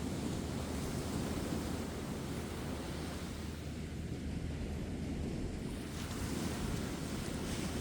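Ocean surf breaking and washing on a beach: a steady rushing noise that eases off a few seconds in and swells again near the end.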